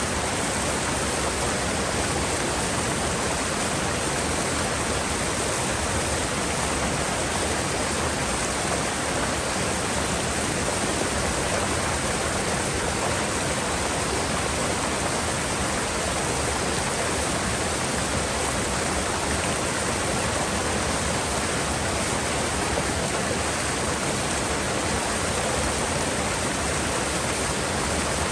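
Mountain river water rushing in a steady, even roar, with no change throughout.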